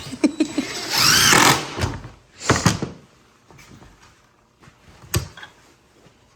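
Two short bursts from a power drill, the first with a whine that slides up and down, followed a few seconds later by a single sharp click.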